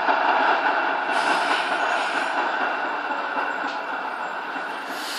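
Tram running along its rails, heard from inside the car: steady wheel-and-rail running noise with short hisses, gradually getting quieter.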